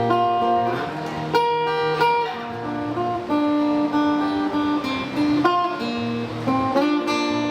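Acoustic guitar playing an instrumental passage between sung lines, a run of picked and strummed chords with a couple of sliding notes near the end.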